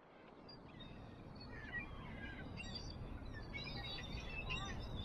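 Several small songbirds chirping and trilling in short, scattered calls over a low steady outdoor rumble, fading in.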